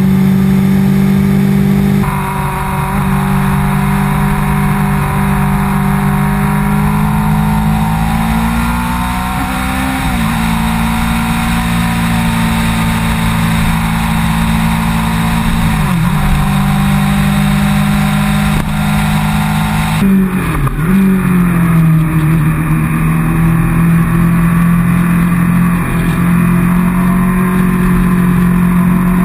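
Honda CBR600RR's inline-four engine running at steady road speed under way, its pitch dipping briefly three times and then settling again, with wind noise over it.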